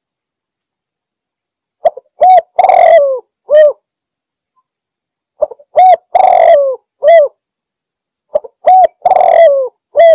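Spotted dove (tekukur) calling three times, each phrase a couple of short coos, a longer rough coo and a closing short coo. It is a dove calling out to a rival.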